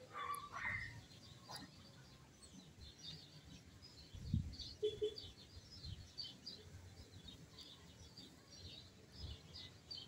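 Small birds chirping at dusk, many short high twitters overlapping throughout as they settle in to roost. There is a brief low bump about four seconds in.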